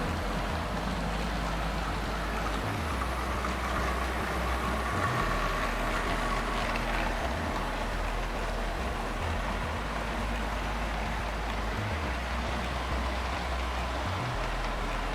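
Model train running on the layout track: a steady rolling noise with a low motor hum that shifts in level several times.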